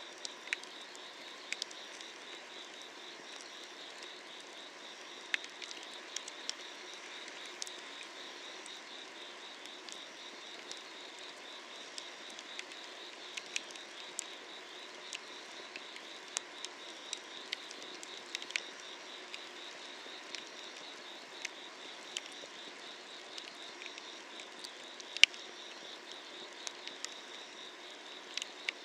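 Wood fire crackling under an iron cauldron, with irregular sharp pops and one loud snap about 25 seconds in, over the steady pulsing chirr of summer-night insects.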